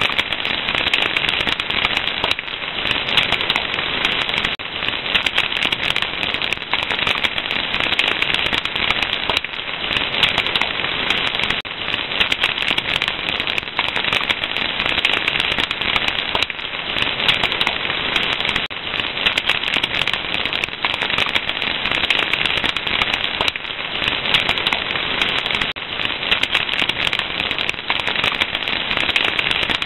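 Fire crackling steadily, a dense run of small pops and snaps over a constant hiss.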